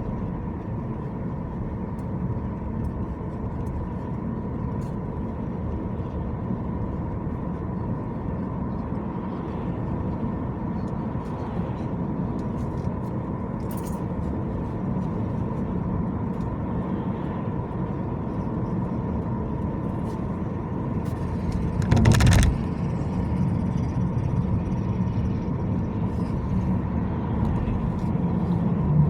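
Steady road and engine noise of a car driving, heard from the car, with one loud thump about 22 seconds in.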